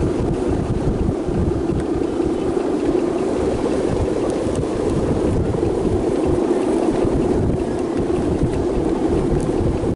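Strong wind buffeting the microphone in a ragged low rumble, over a steady drone.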